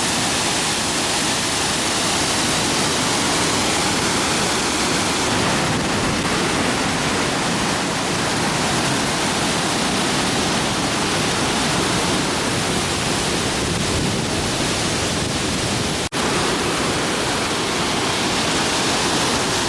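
Waterfall at Devil's Bridge rushing steadily and loudly, with a momentary break about 16 seconds in.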